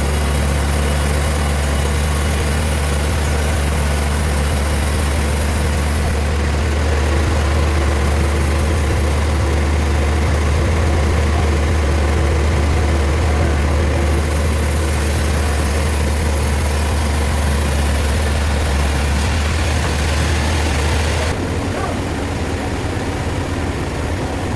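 Heavy machinery running with a steady, loud, low drone; near the end the deep hum drops away and the sound gets a little quieter.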